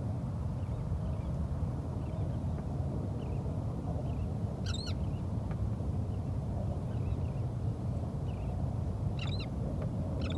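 Wild birds calling: short, high calls, the loudest about halfway through and again near the end, with faint chirps in between. Under them runs a steady low rumble from the boat and the water.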